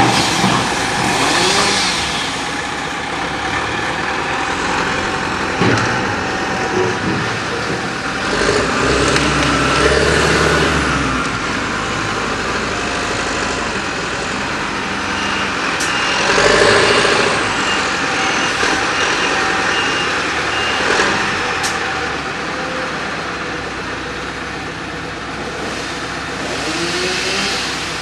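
Diesel engines of a front-end loader and dump truck running as they work, rising and falling in a few louder swells, with a reversing beeper sounding for a while in the middle.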